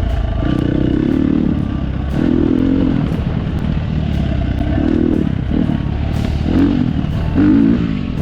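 Dirt bike engine running under load on a trail, its revs rising and falling every second or two as the throttle opens and closes, with scattered sharp clicks and clatter.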